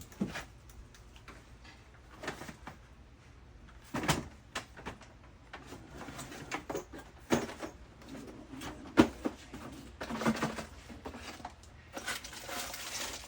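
Rummaging through a stash of used door parts: irregular knocks, clatters and rattles of parts being moved and set down, with one sharp knock about two-thirds of the way in.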